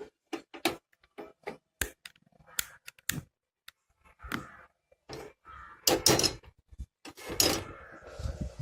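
A run of short light clicks and knocks, with louder bumps and scrapes about six and seven and a half seconds in: kitchen utensils and a pan being handled while setting up to fry.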